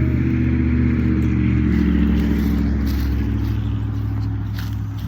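A motor vehicle's engine running close by, a steady low drone whose pitch shifts slightly about two seconds in and eases a little toward the end.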